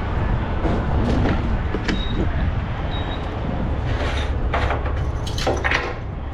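Steady low rumble of a semi-truck at a diesel fuel lane, with scattered knocks and clatter of handling, and two short high beeps about two and three seconds in.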